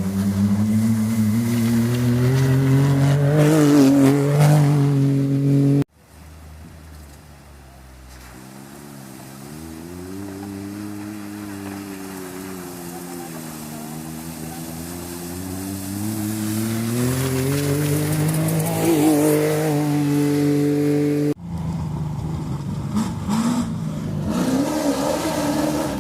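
Racing engines revving on a muddy track, their pitch rising and falling as the machines accelerate and ease off. The sound cuts abruptly twice. After the first cut an engine starts faint and grows steadily louder as it approaches.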